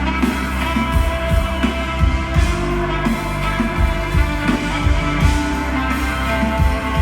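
Live rock band playing an instrumental stretch of a song, guitar-led, with no vocals.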